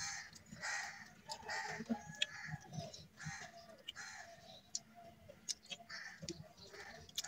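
Faint birds calling in the background: a run of short calls, a couple every second, with scattered small clicks.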